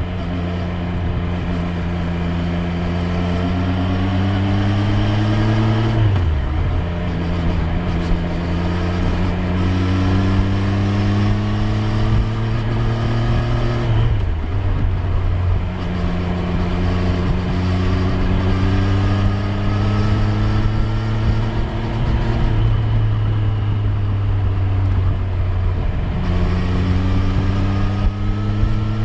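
Triumph Street Triple 765 R's inline three-cylinder engine under way. Its pitch climbs steadily as the bike accelerates and drops sharply at gear changes about 6, 14 and 22 seconds in.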